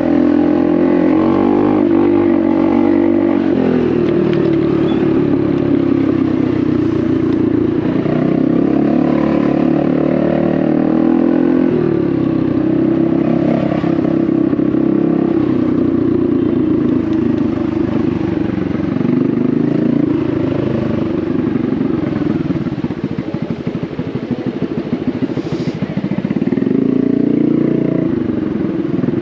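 Honda Navi's small single-cylinder engine running through a Vance & Hines exhaust while riding, its pitch rising and falling with the throttle. It eases off after about 22 seconds, then climbs again shortly before the end.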